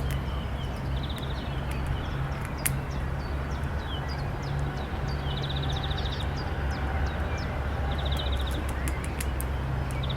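Small birds chirping: many short, high, falling chirps with a few brief buzzy trills, over a steady low hum.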